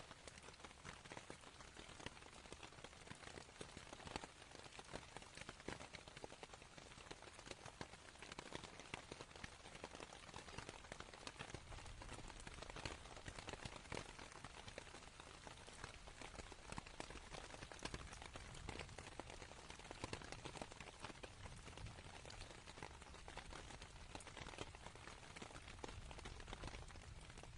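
Rain pattering on a canvas tent, faint and steady, made of many small individual drop taps. A low rumble of distant thunder builds underneath from about halfway through.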